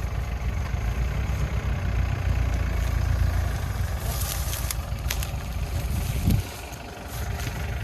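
Off-road vehicle's engine running with a deep rumble, revving up briefly about six seconds in and then dropping off abruptly, with short sharp clicks over it in the second half.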